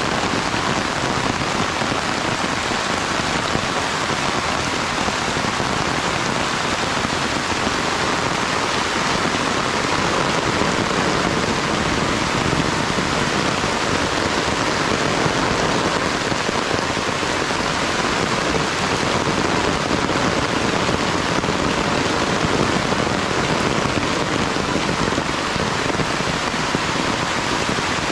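Steady heavy rain falling, an even dense hiss of drops on surfaces that holds without a break.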